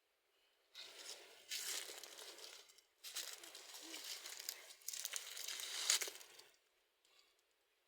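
Rustling, crinkling noise in three long bursts of about a second and a half each.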